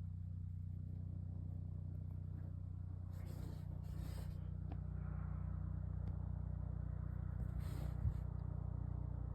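Rescue helicopter flying overhead: a steady low drone of rotor and engine. Two brief hissy swells pass through it, and a single short knock sounds about eight seconds in.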